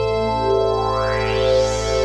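Sequential Circuits Prophet VS vector synthesizer holding a sustained chord over a low bass note, which shifts at the start. A bright, shimmering sweep swells up and fades back about a second and a half in.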